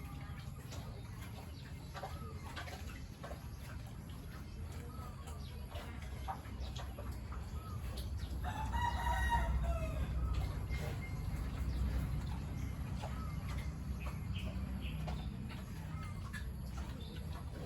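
A rooster crowing once, about halfway in, a single call of about two seconds, over a steady low rumble.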